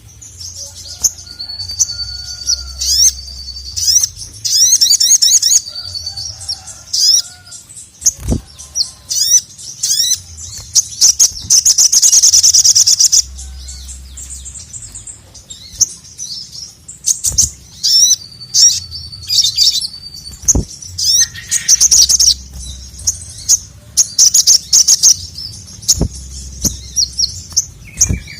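Sogok ontong (ruby-cheeked sunbird) singing in full, excited song: rapid high-pitched chirps, trills and fast sweeping notes in repeated bursts. A few sharp clicks or knocks are heard among them.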